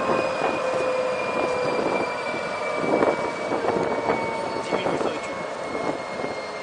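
Engine of the SNCF BB 68540 diesel locomotive running, with a high whine that slowly drops in pitch and scattered metallic clicks.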